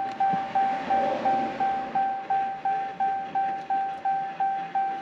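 2021 Jeep Cherokee's dashboard warning chime dinging over and over, about three evenly spaced dings a second on one steady pitch, each fading before the next: the ignition is on with the engine not running.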